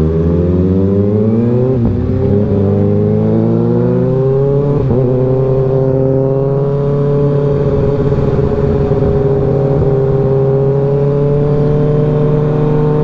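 Motorcycle engine accelerating, its pitch rising, with two short breaks about two and five seconds in as it shifts up. After that it holds a steady cruising pitch.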